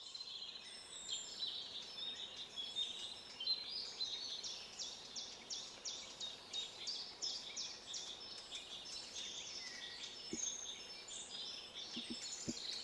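Small songbirds chirping and singing, many short high calls and quick falling notes overlapping, over a faint steady hiss. A few faint low knocks near the end.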